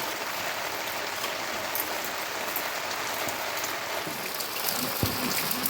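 Steady rain falling and pattering on surfaces, an even hiss throughout, with a soft thump about five seconds in.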